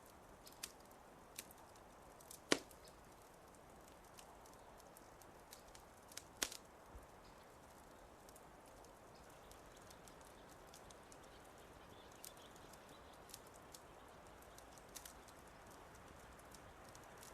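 Quiet wood fire crackling: scattered sharp pops over a low steady hiss. The loudest pops come about two and a half and six and a half seconds in.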